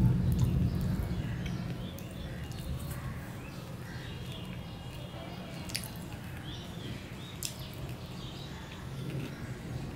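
A person chewing a mouthful of rice close to the microphone, with wet mouth sounds and a few sharp clicks near the middle.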